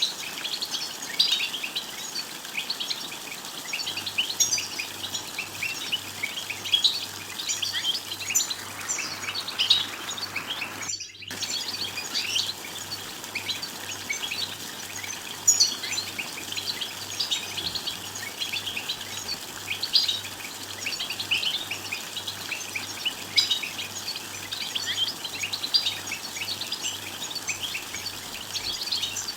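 A group of European goldfinches twittering, a dense continuous run of quick high chirps and trills, with a brief dropout about eleven seconds in.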